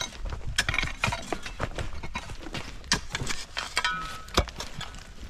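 Irregular knocks and scrapes of hand tools and loose rock on a rocky trail washout being filled in, with the sharpest knock about four and a half seconds in.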